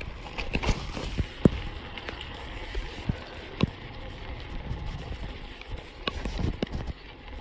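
Scattered sharp clicks and knocks, loudest about one and a half seconds in and again past three and a half seconds, over a low rumble like wind on the microphone.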